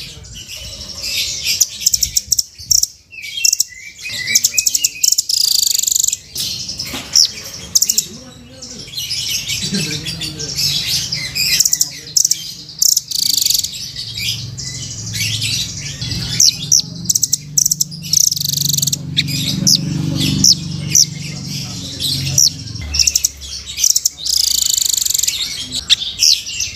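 Velvet-fronted nuthatch (rambatan) calling continuously: rapid runs of sharp, high chirps and trills, with brief gaps between the runs.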